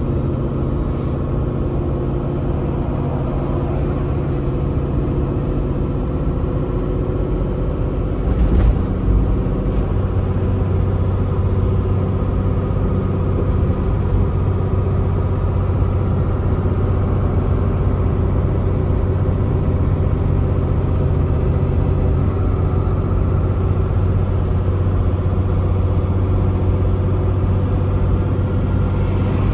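Semi truck's diesel engine and road noise droning steadily inside the cab while it goes down a long, steep grade. About nine seconds in there is a brief thump, after which the low drone grows stronger and stays that way.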